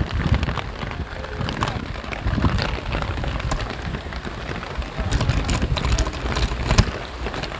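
Rain falling, a dense steady patter with many small sharp splashes over a low rumble.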